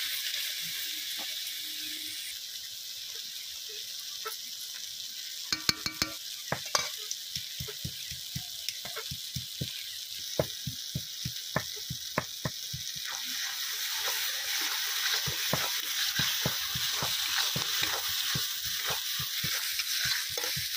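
Onions and tomatoes sizzling in hot oil in a kadai, with a spatula scraping and knocking against the pan as they are stirred. The stirring strokes come thick and fast over the last few seconds.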